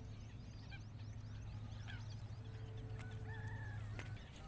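Birds chirping, with a longer wavering call about three seconds in. A steady low hum stops near the end.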